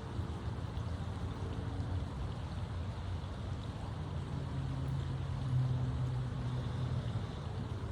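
Steady low rumble like distant engine noise, with a low engine hum coming up about four seconds in and fading near the end.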